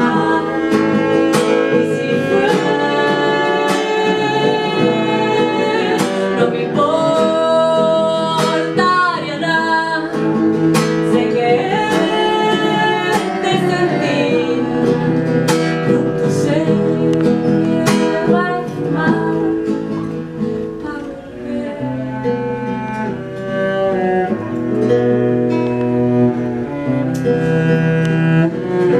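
Acoustic ensemble playing an instrumental passage live: plucked guitar with a bowed string line that glides between notes.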